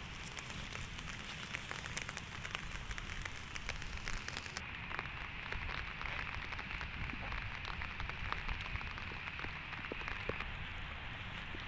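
Rain falling on surfaces: a steady hiss dotted with many small drop ticks, over a low rumble.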